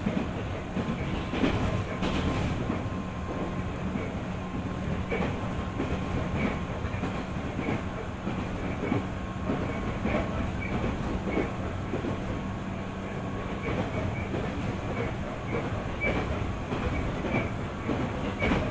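Running sound of a JR 205 series 600-subseries electric multiple unit heard on board at steady speed. The wheels click over rail joints at a regular rhythm, about once a second, over a constant low hum.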